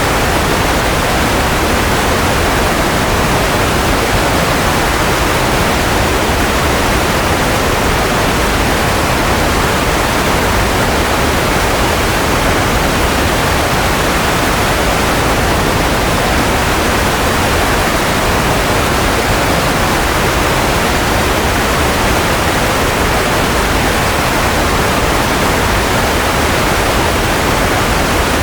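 Steady white noise for baby sleep: an even, unchanging rushing hiss, fuller in the middle range and softer in the highs, with no hum or tone in it.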